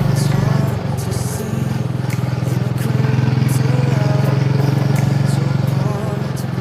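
Royal Enfield Meteor 350's single-cylinder engine running steadily, with a brief dip about a second in.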